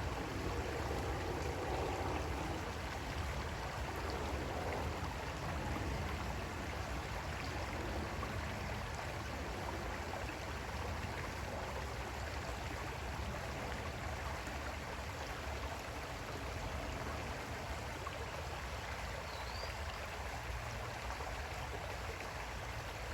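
Creek water flowing steadily, a constant rush and burble.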